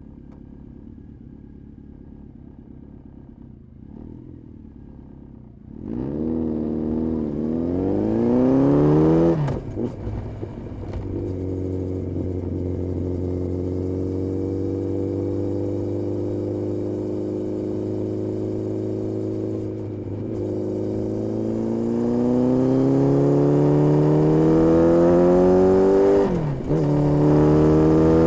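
Honda CB1300S four-cylinder engine through an Ixrace aftermarket exhaust. A low, quiet running note for about six seconds, then the revs climb, cut with a gear change about nine seconds in, hold steady while cruising, climb again and drop with another shift near the end.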